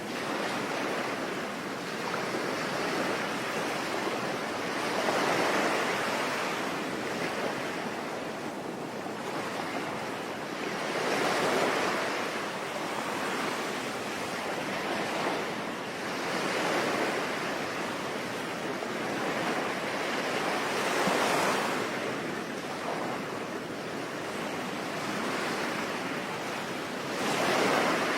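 Ocean waves washing onto a shore, swelling and falling in slow surges about every five to six seconds over a steady hiss of rain.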